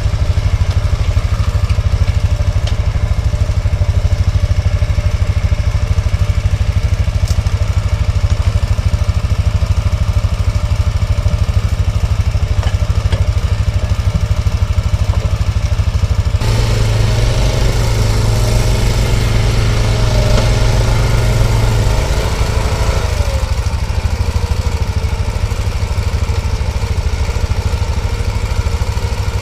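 ATV engine running steadily. About sixteen seconds in the sound changes abruptly to another engine note, which settles lower a few seconds later.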